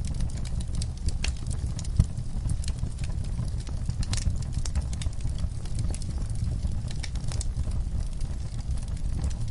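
Wood fire in a fireplace crackling with irregular snaps and pops over a steady low rumble of the burning, with one sharper pop about two seconds in.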